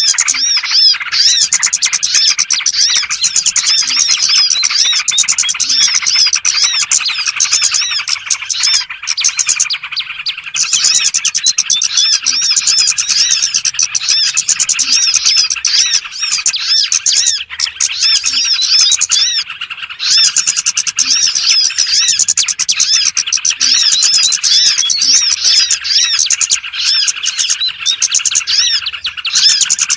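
Dense, continuous chorus of many small songbirds chirping and twittering rapidly, a bird-lure recording of small birds ('burcil') meant to draw wild small birds in for trapping.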